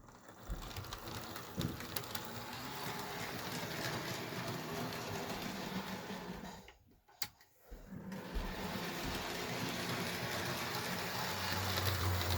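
HO scale Athearn Blue Box Santa Fe U-boat model locomotive running along the track: a steady whir of its small motor and gears, which runs without flywheels. The whir stops for about a second and a half around the middle, with one click, then starts again and is a little louder near the end.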